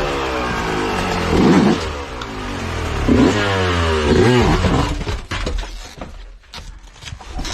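Yamaha 125cc dirt bike engine revving in quick throttle blips, its pitch rising and falling sharply three times. It dies away near the end, leaving light clicks and rustling.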